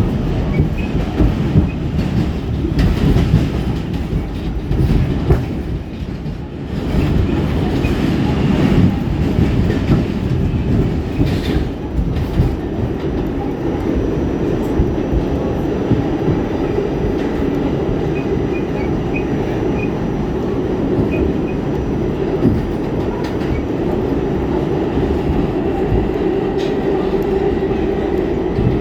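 R46 subway car running along the track, with steady rumbling running noise and wheels clicking over rail joints, and occasional knocks. The noise dips briefly about six seconds in.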